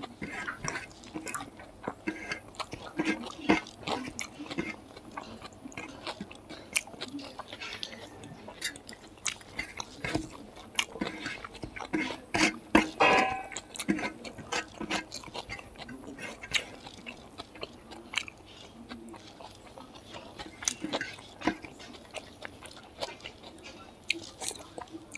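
Close-up eating sounds of a person chewing a mouthful of pork and rice, with many short wet clicks and lip smacks throughout.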